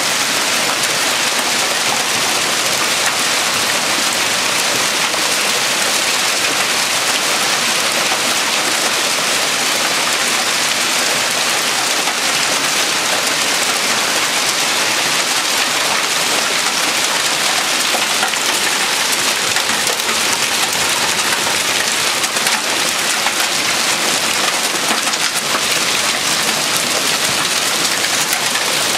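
Quarter-sized hail and rain pelting down hard: a loud, steady, dense clatter of countless small impacts.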